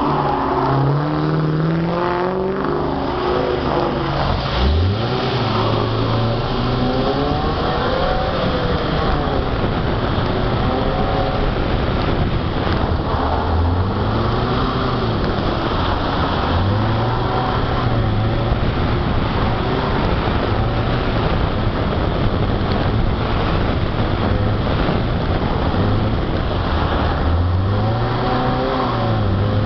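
Volvo 245 wagon's engine repeatedly accelerating and easing off as the car is driven hard through an autocross course. Heard from inside the car, with steady road and wind noise.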